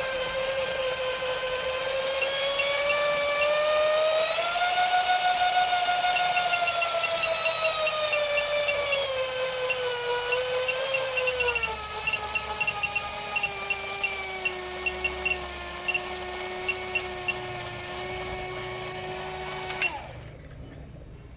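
A small electric motor running at high speed with a steady whine that wavers up and down in pitch. Light irregular ticks run over its middle stretch. The pitch drops and holds lower, then the motor cuts off suddenly near the end.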